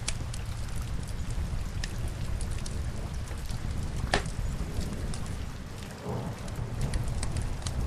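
Rain falling on window glass mixed with a crackling log fire: a steady low rumble and hiss under scattered sharp pops, with one louder crack about four seconds in.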